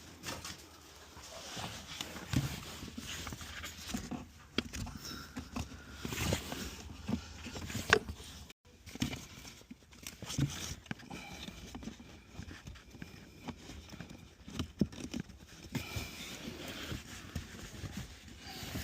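Irregular plastic clicks, taps and rustling from handling a car's cabin air filter and its housing, with one sharper knock about eight seconds in.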